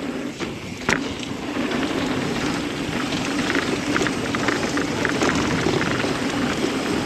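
Mountain bike rolling fast down a dirt flow trail: tyres humming and crunching over the dirt with a steady rush of wind past the rider, a sharp knock about a second in and scattered light ticks and rattles in the middle.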